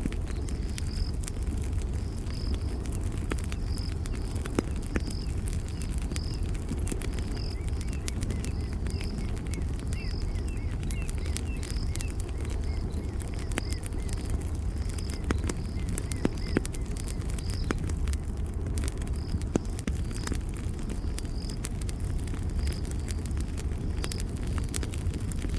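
Campfire burning with a steady low rumble and frequent sharp crackles and pops, over a high chirp repeating at a steady pace.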